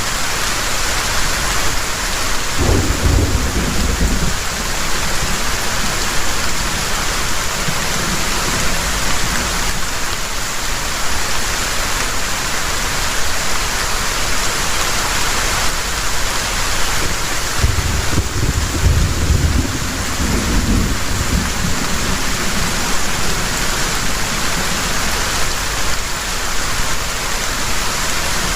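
Heavy rain pouring steadily, with two low rolls of thunder: one a few seconds in and a longer one past the middle.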